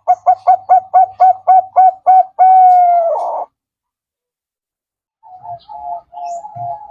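Zebra dove (perkutut) cooing: a fast run of about nine short notes, about four a second, ending in one long, slightly falling note. After a pause of under two seconds, a quieter run of short notes begins.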